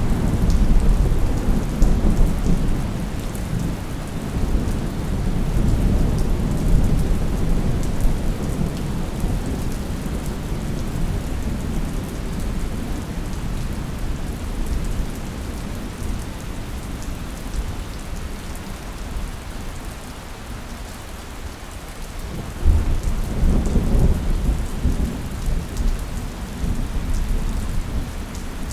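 Thunderstorm: steady heavy rain with rolling thunder. A long rumble fades away over the first several seconds, and a second rumble of thunder starts a little over 20 seconds in.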